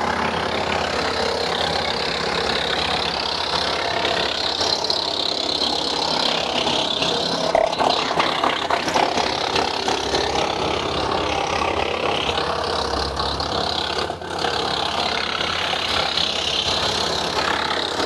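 Tractor-PTO-driven Woodland Mills WC68 wood chipper chipping green cherry and ash branches, a continuous loud crunching and rattling over the steady run of the tractor engine, with a brief dip about 14 seconds in.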